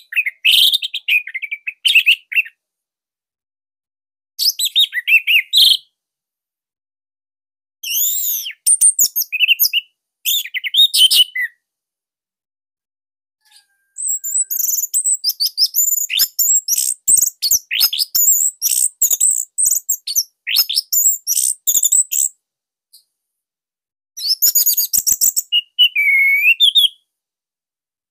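Orange-headed thrush (anis merah) singing in phrases of rapid, varied, high chirps and gliding whistles, tightly packed and loud, with silent gaps of a second or two between phrases; the longest phrase runs about eight seconds near the middle.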